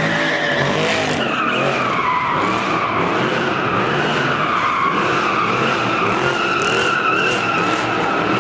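Car doing donuts, its tyres squealing continuously in a long wavering screech, with the engine running hard underneath.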